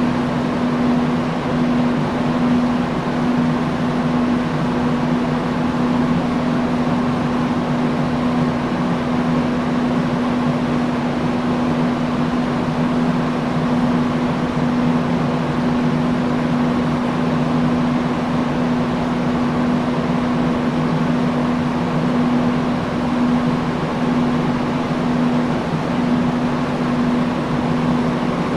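Industrial fan running steadily: an even rush of air over a constant low hum.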